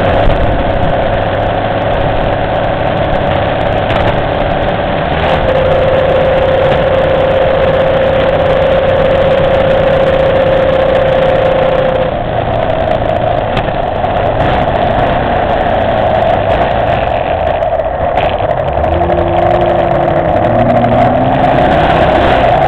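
Motorcycle engine running while riding, holding a steady pitch through the middle, with the pitch shifting higher about twelve seconds in and short rising notes near the end.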